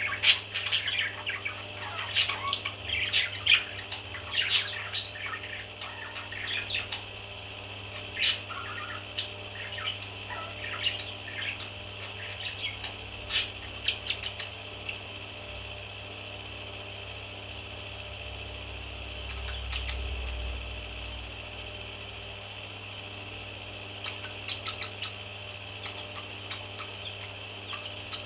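Baby parrots chirping and squawking in short calls, busy for the first half and then only a few calls, with a short burst of chirps a little before the end. A steady hum runs underneath.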